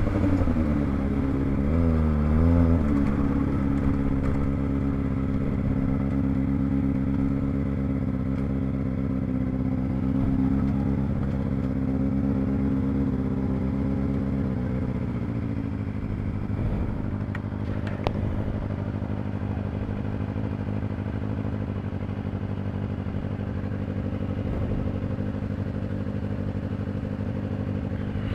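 Kawasaki ZX25R's 249 cc inline-four engine heard on board, its pitch falling as it slows, then holding a steady note. About fifteen seconds in it drops to a lower, steady idle-like note.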